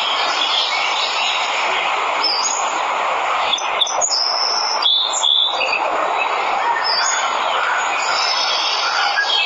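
Waterfall giving a steady rush of falling water. Small birds chirp above it in short high calls, several between about two and five seconds in and again at about seven seconds.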